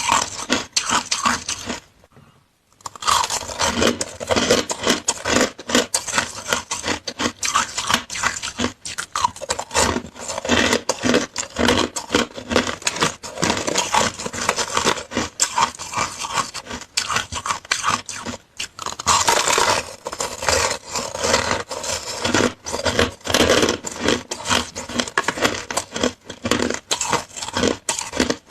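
Someone chewing and crunching purple-flavoured frozen shaved ice, a dense run of crisp crunches with a brief pause about two seconds in.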